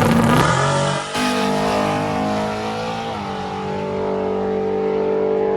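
Race car engine at high revs, accelerating hard down the track. There is a brief dip about a second in and a step down in pitch about three seconds in, like gear changes.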